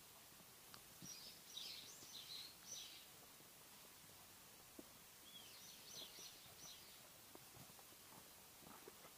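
Faint bird chirping: two short runs of quick high notes, one about a second in and another around five seconds in, over a quiet outdoor hush.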